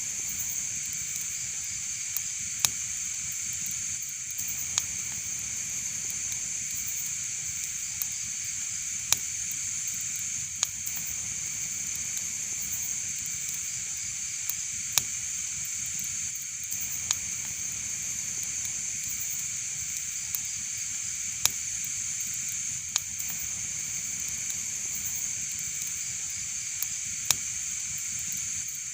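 Wood fire burning in a fireplace: a steady hiss with sharp crackling pops at irregular intervals, every second or few.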